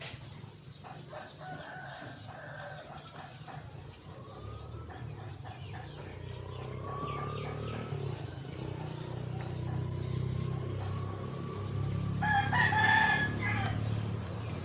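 A rooster crows loudly near the end, after fainter drawn-out rising calls, over a steady low rumble.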